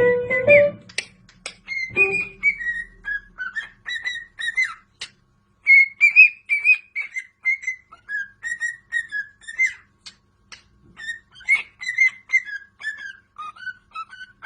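A parrot whistling and chirping: a long run of short, wavering whistled notes with clicks between them.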